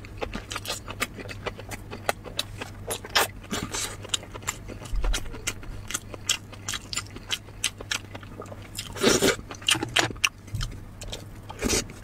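Close-miked chewing and wet mouth sounds: many quick smacking clicks as food is eaten, with a longer, louder one about nine seconds in.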